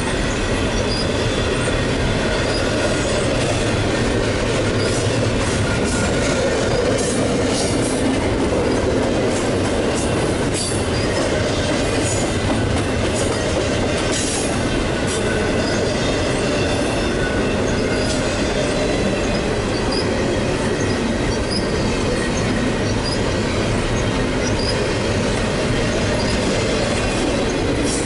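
Double-stack intermodal freight train's steel wheels rolling steadily over the rails in a continuous rumble, with faint high ringing tones from the wheels and scattered clicks over the rail joints.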